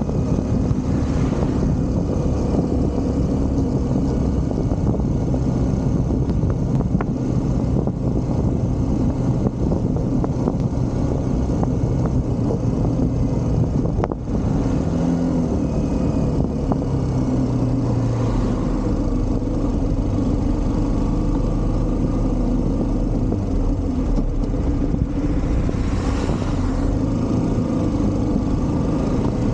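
Motorcycle engine running at road speed with heavy wind and road noise; the engine note steps up and down a few times.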